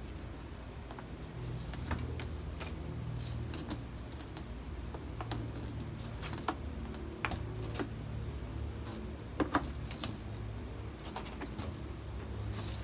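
Scattered light clicks and taps of things being handled, over a faint low hum.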